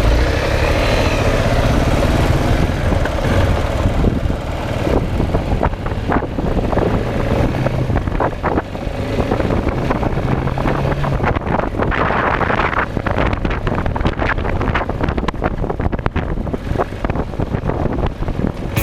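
Single-cylinder dual-sport motorcycle engine running while being ridden, with wind buffeting the microphone and scattered clicks and knocks through the ride.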